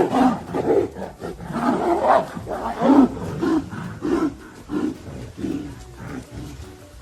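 Two tigers fighting, roaring and snarling in a rapid string of short, rough calls that grow quieter towards the end.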